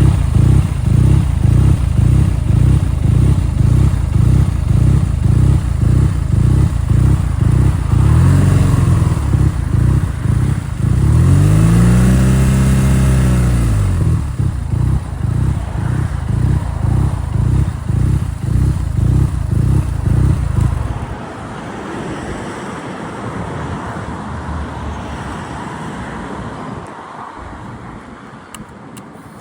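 A BMW R nineT's boxer twin idling roughly with an uneven, pulsing beat, a rough idle whose cause the owner is asking about. It is blipped briefly about eight seconds in and revved up and back down around twelve seconds. About twenty-one seconds in the engine note stops, leaving a quieter hiss.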